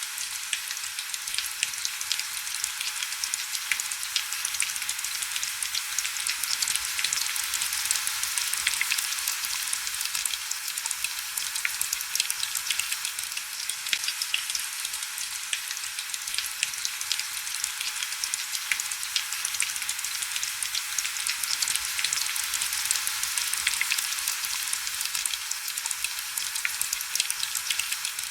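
Heavy rain falling steadily: a dense, even hiss of countless small drop impacts, thin and crackly, with no low rumble.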